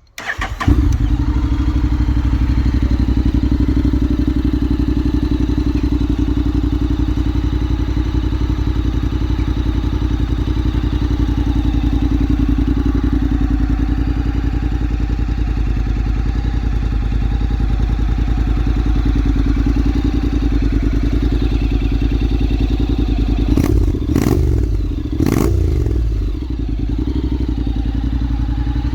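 Honda Forza 750's parallel-twin engine breathing through a Mivv Delta Race slip-on exhaust, idling steadily. Toward the end come two short throttle blips, each rising in pitch and dropping back to idle.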